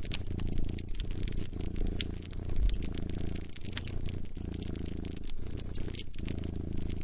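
A cat purring close up, a low steady hum that dips about once a second with each breath, while a wood fire crackles over it with frequent sharp pops and snaps.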